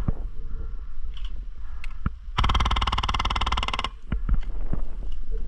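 Airsoft electric gun firing a full-auto burst of rapid, evenly spaced shots lasting about a second and a half, near the middle, followed by a few separate sharp clicks. Wind rumbles on the microphone throughout.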